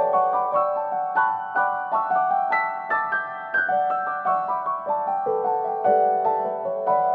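Background music: solo piano playing a flowing melody of many short, ringing notes.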